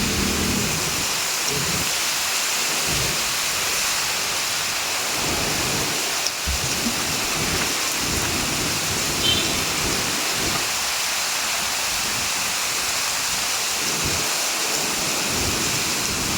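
Heavy rain falling steadily: a continuous, even hiss, with an uneven low rumble underneath.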